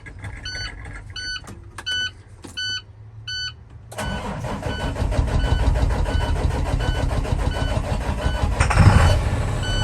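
A repeating electronic beep sounds about every 0.7 s with faint clicking and a few short bursts. About four seconds in, the International WorkStar 7400's MaxxForce diesel starts from cold and settles into running, briefly louder near the end, while the beeping carries on over it.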